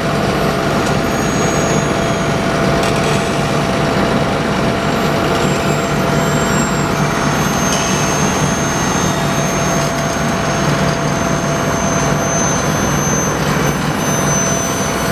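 Heavy asphalt-paving machinery, most likely the paver's diesel engine, running steadily under a continuous mechanical noise. A thin steady whine sits on top and drops out for a few seconds past the middle.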